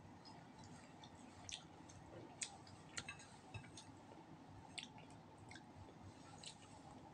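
Quiet chewing of roast duck and rice eaten by hand, with about half a dozen sharp wet mouth clicks and smacks spread through.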